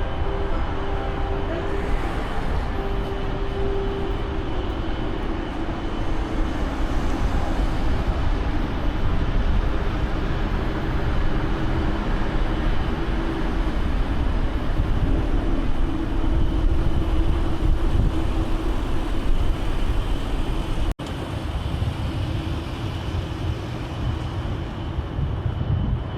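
Steady rumble of vehicle traffic with a droning engine hum that sinks slightly in pitch, broken by a momentary dropout near the end.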